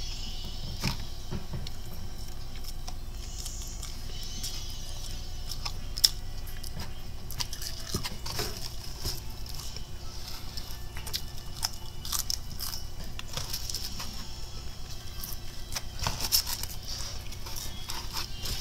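Fried chicken being chewed close to the microphone, with crunching, scattered sharp clicks and crackles, settling into a steady chewing rhythm of about three chews a second from about halfway through.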